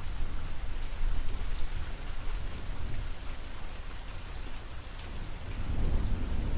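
Steady rain with a low rumble of thunder underneath, the rumble swelling near the end.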